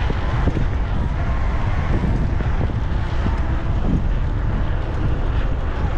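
Wind buffeting the microphone of a mountain biker's camera while riding, a dense, steady rumble heaviest in the low end.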